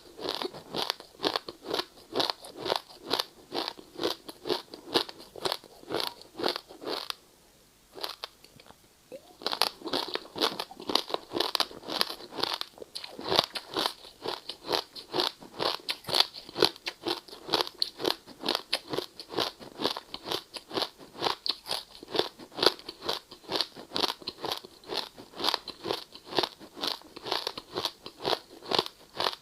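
Close-up crunching of ice being bitten and chewed, rapid crunches about two to three a second, with a brief pause about seven seconds in before the chewing resumes.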